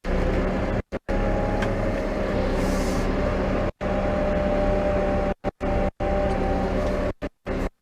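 New Holland T5.120 tractor's four-cylinder diesel engine running steadily under load while pulling a plough, with a constant hum. The sound cuts out to silence for a split second several times.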